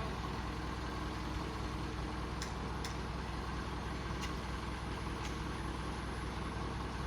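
Truck engine running steadily with a low, even hum, with a few faint high ticks over it.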